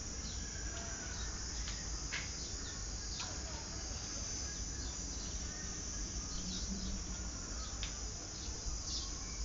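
Outdoor ambience: short, quick chirps falling in pitch, from birds, scattered throughout over a steady high hiss and a low rumble.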